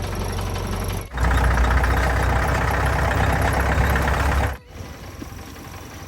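Vehicle engine running, the sound breaking off suddenly twice: a steady stretch, then a much louder one from about a second in, then a quieter one near the end.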